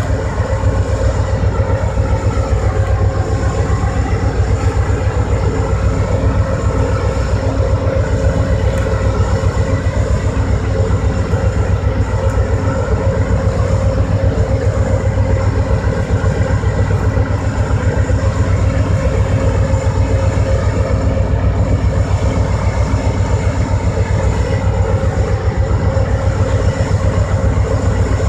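Diesel locomotive of Amtrak's Vermonter running steadily at close range: a deep, even rumble with a steady hum over it.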